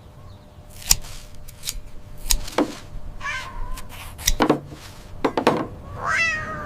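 A few sharp knocks and taps, with two short animal calls, the last a falling, cat-like meow near the end.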